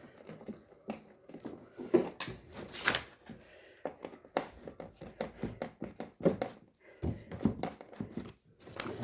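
Washing machine parts being handled and fitted by hand: irregular clicks, knocks and rustling, with the sharpest knocks about two and three seconds in.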